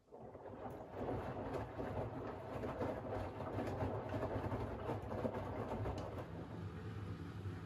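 Front-loading washing machine drum, a Siemens iQ700 WG56B2090, starting to turn again after a pause in the wash rhythm. Wet laundry and water slosh and tumble with many small clicks over a low motor hum, building up over the first second.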